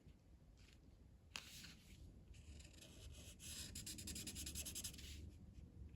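A colouring tool scratching on paper. There is one stroke about a second and a half in, then a few seconds of rapid back-and-forth shading strokes that stop shortly before the end.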